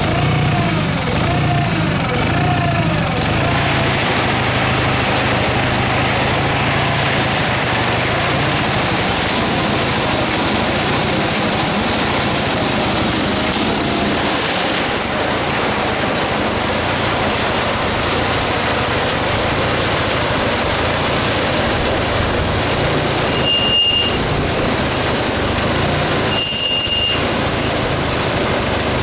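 Case 446 garden tractor's 16 hp Onan B43 two-cylinder engine running steadily while it drives a hay elevator through the L-29 540 PTO attachment. Two short high squeaks come near the end.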